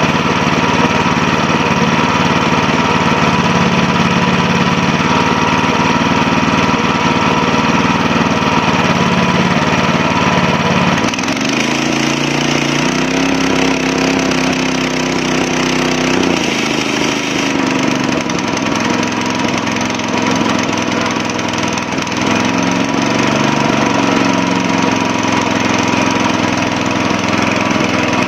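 Rotovator's small gasoline engine running steadily after its carburetor and fuel lines were cleaned. About a third of the way in it speeds up with a rising, wavering pitch, and it speeds up again later, showing that the throttle now responds once the stuck throttle spring was freed.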